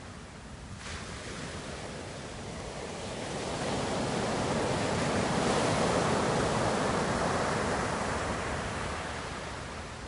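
Ocean surf: a wave builds from about a second in, washes loudest in the middle, then fades as it draws back.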